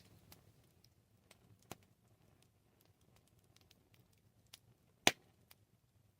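Wood fire crackling: scattered sharp pops and small crackles, a louder one near the middle and a loud pop about five seconds in, over a faint low hiss.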